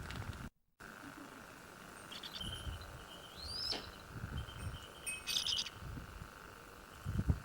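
Short bird calls and chirps, one of them a rising whistle, over outdoor ambience with low rumbles from wind or handling of the microphone.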